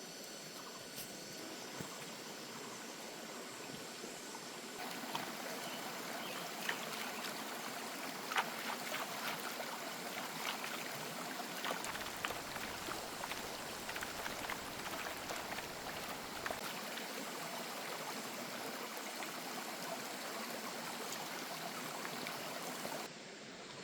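Water of a small stream flowing steadily, with scattered small clicks and splashes over it; the flow gets louder about five seconds in.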